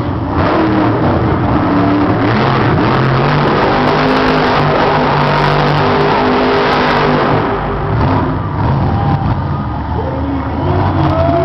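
Monster truck engine running hard, its pitch rising and falling as the throttle is worked.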